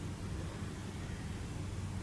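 Steady low hum with an even hiss over it, unchanging throughout: background noise with no distinct event.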